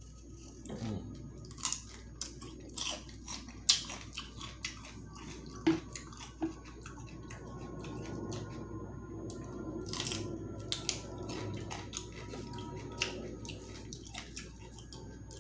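Close-miked chewing of sauced chicken wings: wet smacking and sharp mouth clicks coming irregularly, several a second at times.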